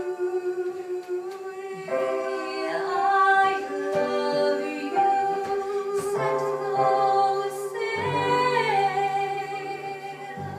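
Closing bars of a musical-theatre duet: the singers hold the final sung note while piano chords change underneath, the chords going deeper about eight seconds in.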